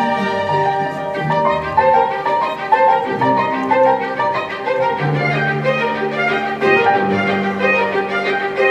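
Bowed string music: a violin plays a moving melody over long held low notes.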